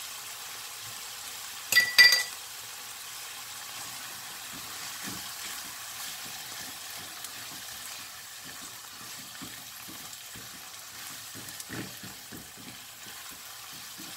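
Diced vegetables and tomato paste sizzling in a nonstick wok, stirred and scraped with a silicone spatula. Two sharp clinks with a brief ring about two seconds in are the loudest sounds.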